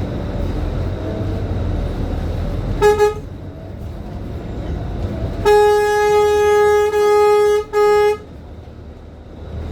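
A vehicle horn honking: two quick short toots, then a long blast of about two seconds and one more short toot. Steady low rumble of the bus's engine and road noise runs underneath.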